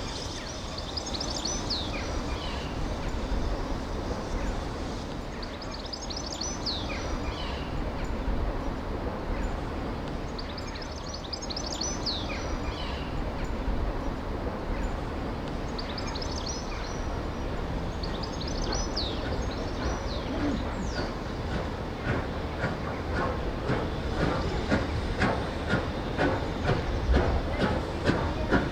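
A train running on heritage railway track, rumbling steadily, then a run of regular wheel clicks over the rail joints that grows louder from about three quarters of the way in as it draws closer.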